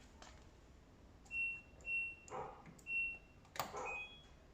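LG tumble dryer control panel beeping as its buttons are pressed to switch it on and start a cycle: three short beeps of the same pitch about a second apart, a click, then a different-pitched beep near the end.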